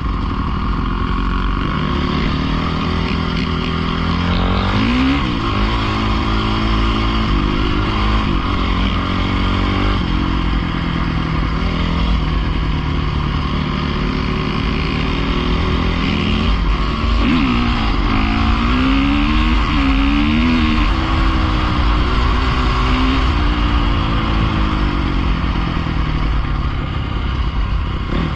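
Dirt bike engine running under riding, its pitch rising and falling as the throttle opens and closes: a climb about four seconds in and a quick series of rises and drops around seventeen to twenty-one seconds in, over a steady low rumble.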